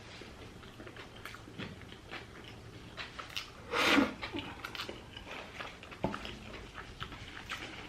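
A person chewing a mouthful of cheeseburger close to the microphone, with irregular wet mouth clicks and smacks. There is one louder, short noisy burst about halfway through.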